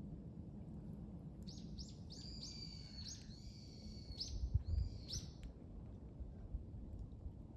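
A bird calling outdoors: a run of several short, harsh notes, starting about a second and a half in and ending about five seconds in, over a steady low background rumble. A brief low thump comes near the middle.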